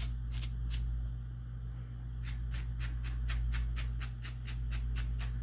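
Stainless steel wire brush scrubbing out a screw slot in short strokes: a few at first, then a quick run of them from about two seconds in. A steady low hum lies under it.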